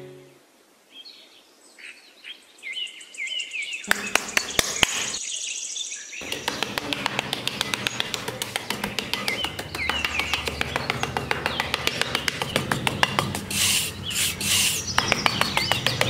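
Small metal hand trowel scraping over sand in quick, repeated strokes, starting about four seconds in, with birds chirping throughout.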